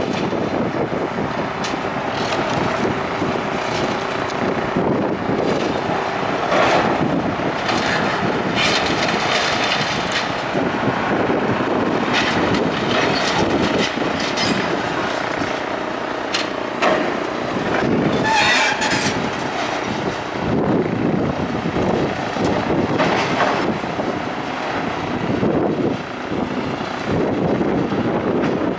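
Wind buffeting the microphone over a rumbling, clattering machine, with a handful of sharp knocks spread through.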